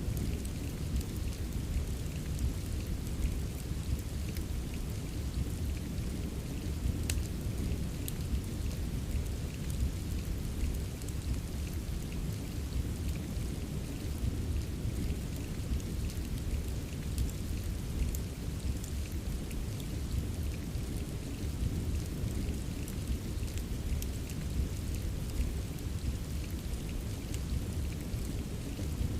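Steady rain with a deep, even low rumble, and a few faint sharp crackles from a wood fire scattered through it.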